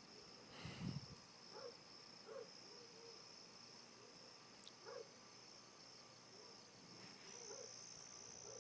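Crickets chirping faintly and steadily at night. A dull thump comes about a second in.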